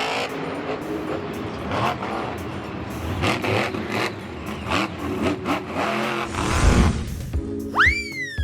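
Monster truck's supercharged V8 engine revving in repeated bursts, with a heavy low rumble near the end. A falling whistle sound effect comes in at the very end.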